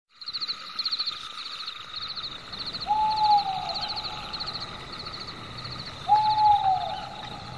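A bird calls twice, about three seconds apart; each call is one clear note that holds, then slides down. Behind it, a steady background of high, rapid pulsed chirping, typical of forest insects, repeats about twice a second.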